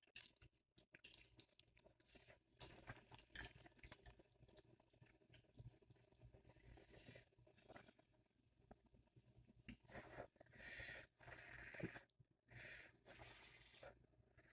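Faint wet eating sounds of spicy ramen noodles being slurped and chewed, with many small mouth and utensil clicks and a couple of longer slurps near the end.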